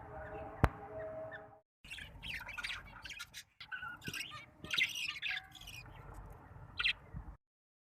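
Budgie chicks chirping and squawking in harsh, rapid calls, in pieces that start and stop abruptly, with a steady hum and a single sharp click in the first second and a half.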